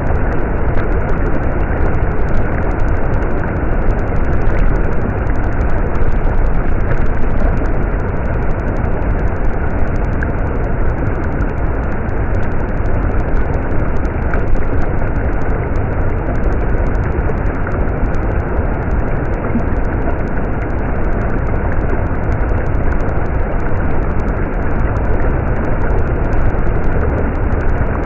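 A stream running: a steady, unbroken rush of flowing water, heavy in the low end.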